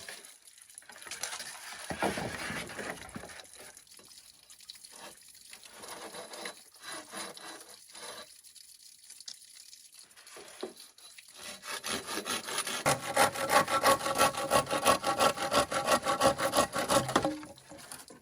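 A hand tool working bamboo in rapid, evenly repeated scraping strokes with a slight ringing, loudest for about five seconds near the end. Lighter scattered handling knocks and rubs come before.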